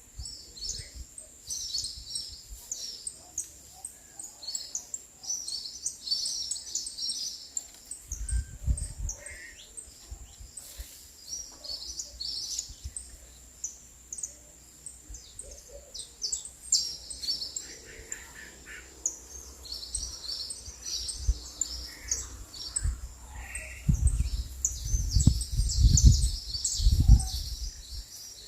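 Several small birds chirping and singing in quick high notes throughout, over a thin steady high-pitched tone. Bursts of low rumble come in about eight seconds in and again near the end.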